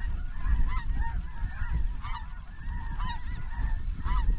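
A flock of snow geese calling overhead: many short, overlapping high-pitched honks, with a steady low rumble underneath.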